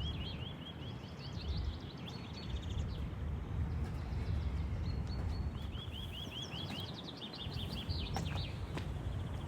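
A songbird singing: a run of quick, repeated chirps at the start and another about five and a half seconds in, with a few scattered short notes between, over a low steady rumble.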